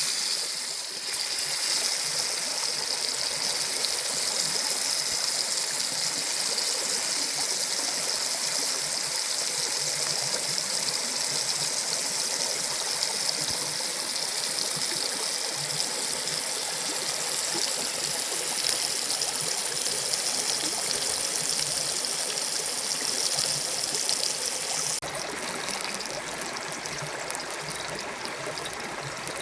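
Salmon steak frying in oil in a pan: a steady, high sizzle that turns thinner and quieter abruptly near the end.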